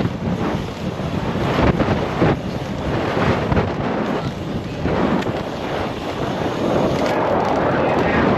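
Wind buffeting the microphone, a loud, uneven rush that swells and drops.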